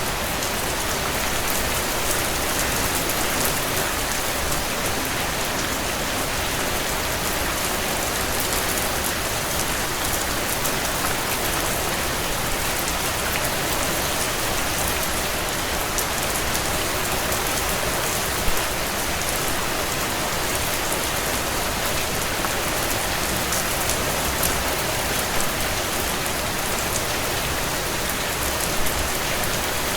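Heavy rain drumming steadily on a tin roof in a dense, even patter, with a few louder single drop hits standing out now and then.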